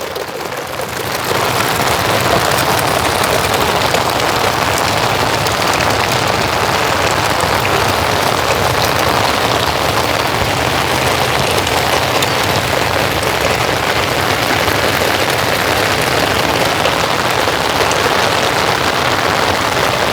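Steady rain falling, an even dense patter that grows a little louder over the first second or two and then holds.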